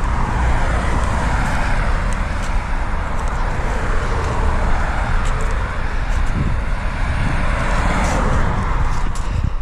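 Road traffic: tyre and engine noise from passing cars, swelling and fading twice over a steady low rumble.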